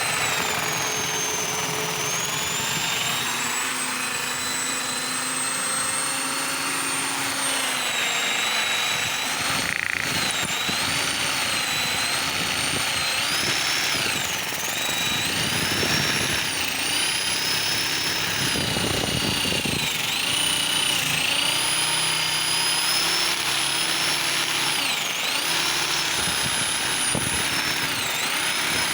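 Electric drill spinning a cylinder hone inside a bicycle-motor engine's cylinder. The drill gives a steady high whine that dips in pitch now and then as it bogs under load, more often in the second half.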